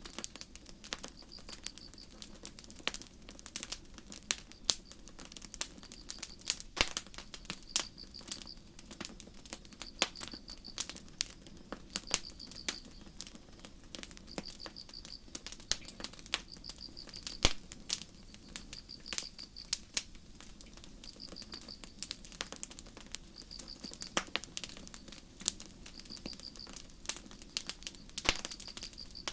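Campfire crackling and popping with irregular sharp snaps, over the low steady rustle of the burning fire. Crickets chirp throughout, a short high trill repeating roughly every second and a half.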